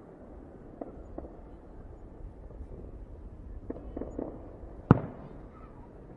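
Fireworks going off: a few scattered pops over a low rumble, with one loud sharp bang about five seconds in.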